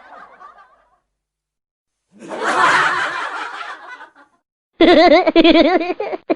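Short laughter sound-effect clips separated by silence: a breathy snicker about two seconds in, then a louder, pitched, rhythmic 'ha-ha' laugh from about five seconds in that cuts off abruptly.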